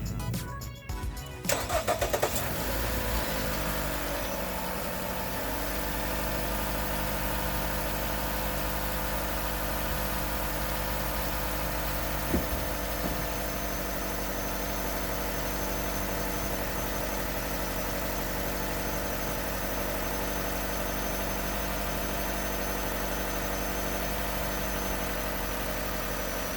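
A 2015 Chrysler 200 LX's 2.4-litre MultiAir four-cylinder engine, freshly filled with new oil, starts about two seconds in. It then idles steadily, the idle settling within a few seconds. There is a single short click about halfway through.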